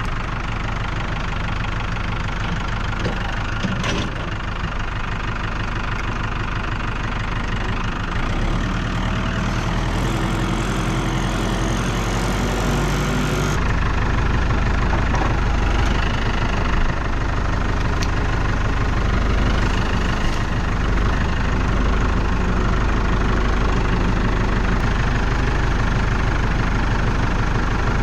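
Compact tractor engine running steadily at idle, with a few brief knocks.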